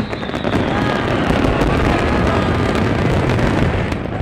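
Fireworks going off in a dense, continuous barrage, with many rapid crackles over a steady rumble.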